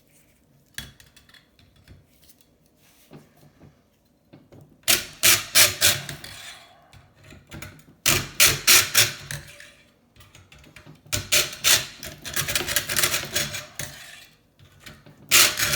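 Small hand saw cutting through the metal tube of a scrap kettle heating element, in several runs of quick back-and-forth strokes after a few quieter scrapes.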